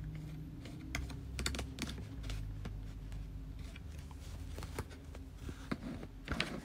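Scattered light clicks and taps from handling tools and materials on a worktable while measuring and marking, over a faint steady low hum.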